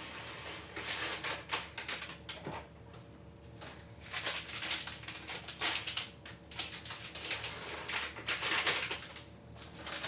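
Irregular crinkling, rustling and light clicks of food packaging being handled and opened in a kitchen.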